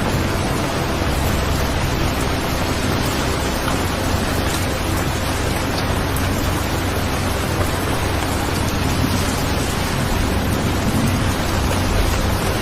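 Steady rain-sound recording, an even hiss of falling rain with a deep rumble underneath.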